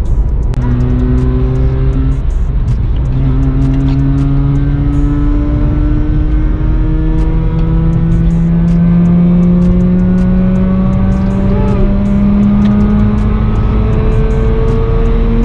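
Mazda RX-8's twin-rotor 13B Renesis engine heard from inside the cabin, pulling under mild acceleration, its note climbing slowly as the car gathers speed, with short breaks about two and five seconds in. The engine has just been tuned with a Unichip piggyback ECU.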